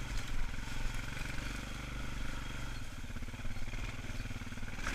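ATV engine running steadily at a slow trail pace, a low, even drone with a fast pulsing beat.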